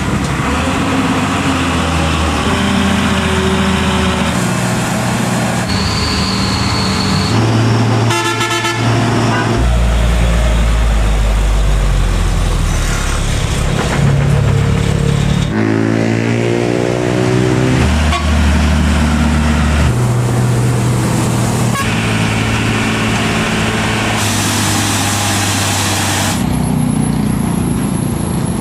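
A run of short cuts of heavy trucks' diesel engines running under load on a steep climb, with the sound changing abruptly every few seconds. About sixteen seconds in, one engine revs up in rising pitch. A vehicle horn sounds among them.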